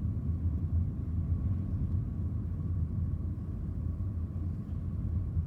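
Steady low rumble inside a Ford car's cabin, with a faint steady whine over it.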